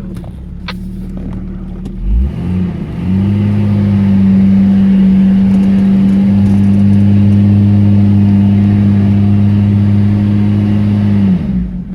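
Off-road 4x4 engine revving up about two seconds in and held at steady high revs for about eight seconds during a hill climb, then dropping back to idle near the end. The front differential lock is not engaging, so the wheels get little drive.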